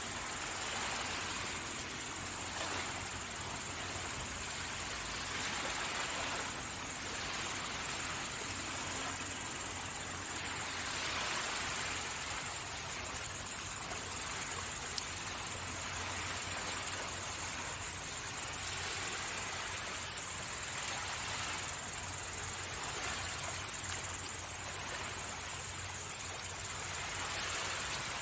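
Sea waves washing onto the shore in slow swells, under a steady high-pitched trilling of insects; a second, higher insect trill joins about a quarter of the way in. One sharp snap about halfway through.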